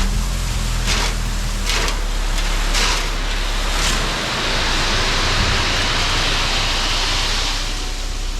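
Cat 307 SSR excavator engine running while dirt and rock are moved, with a few sharp knocks of stones in the first half, then a long rushing pour of dirt and gravel that lasts about three and a half seconds.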